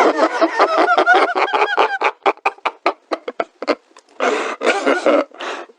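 A person laughing maniacally: a fast run of pitched 'ha' pulses that breaks into short separate bursts about two seconds in, then turns into long breathy wheezes near the end.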